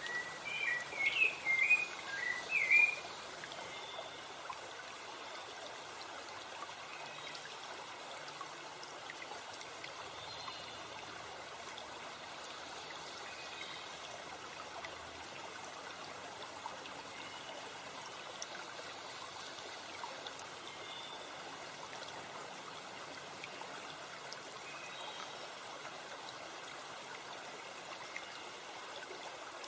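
Steady rush of a forest stream or small waterfall. In the first three seconds a songbird sings a quick burst of warbling notes over it, and after that only faint birdsong comes through the water.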